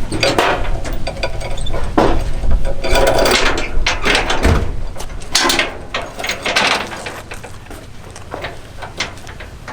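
Irregular metal clanks, knocks and rattles of a tie-down strap and its hardware being worked around a car's front sway bar, busiest in the first half and thinning out near the end.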